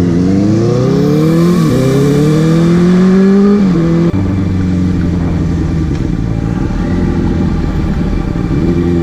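Motorcycle engine accelerating hard through two gear changes, its pitch climbing and dropping at each shift. From about four seconds in it holds a steady cruise.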